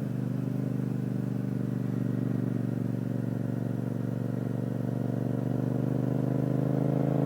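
Yamaha FZ-07 parallel-twin motorcycle engine with an Akrapovic titanium exhaust, pulling steadily while riding in gear, its pitch rising slowly as the bike gains speed.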